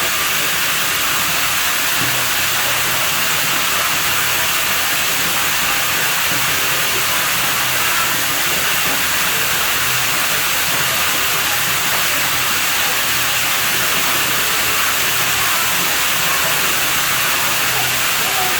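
Water at a pool villa running steadily, an even, constant hiss that does not change.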